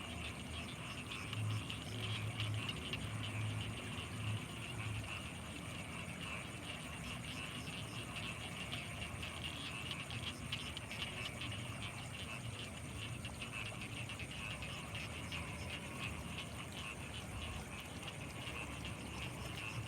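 Night chorus of frogs and insects around rice fields: a dense, steady trilling with a thin, high continuous whine over it, and a run of low, pulsing calls in the first few seconds.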